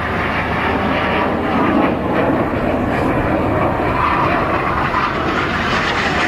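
Jet engines of Red Arrows BAE Hawk T1 trainers flying a display pass, a loud, steady rushing noise that holds without a break.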